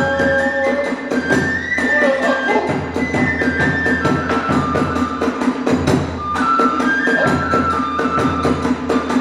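Kagura hayashi accompaniment: a bamboo flute playing a held, stepping melody over fast, steady drum and hand-cymbal strikes.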